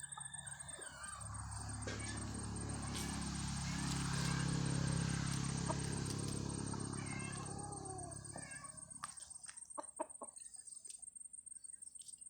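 Chickens clucking, over a low hum that swells to a peak about four seconds in and fades away by about nine seconds.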